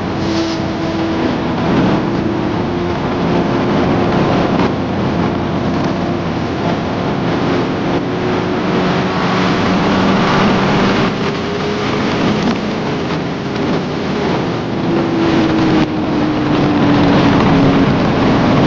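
2019 Kawasaki ZX-10R's inline-four engine running under way with the rider aids off. Its note holds fairly steady, drifts slowly in pitch and falls off near the end, under a loud rush of wind over the microphone.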